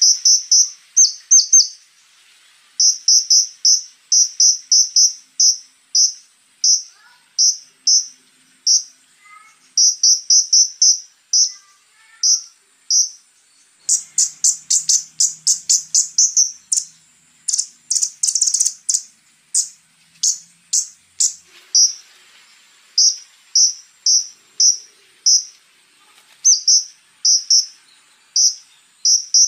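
Scarlet-backed flowerpecker (konin) calling: rapid clusters of short, high-pitched chirps repeated throughout, with a faster, harsher run of sharp ticking notes about halfway through. A faint steady high hum lies underneath.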